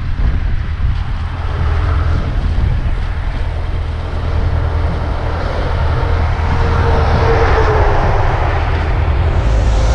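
Suzuki Bandit 650S inline-four engine running steadily on the highway, heard from the rider's camera, with rushing air over the microphone. The sound grows somewhat louder about halfway through.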